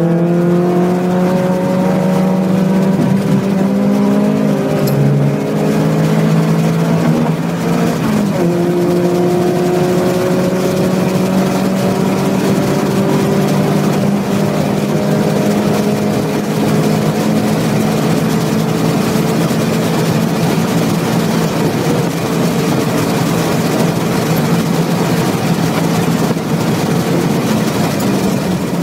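Mazda Miata's four-cylinder engine pulling hard on track, heard from inside the car. Its pitch drops once about eight seconds in at a gear change, then climbs slowly through a long pull while wind and road noise grow with speed.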